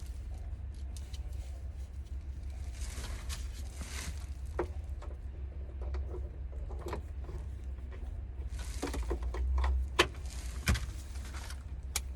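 Scattered light clicks and knocks, with a few brief rustling or brushing sounds, over a steady low hum.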